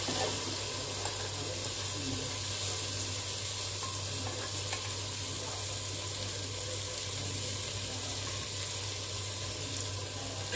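Chicken and masala sizzling steadily in an aluminium pot as washed rice is tipped in, with a couple of faint clicks of a spoon on the bowl.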